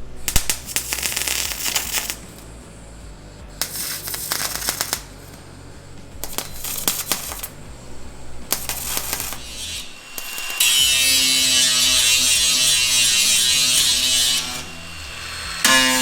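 Four bursts of MIG welding on sheet steel, each crackling for one to two seconds, filling rust holes in a car's sill panel. This is followed by an angle grinder spinning with a steady whine for about four seconds, dropping off, then starting again near the end.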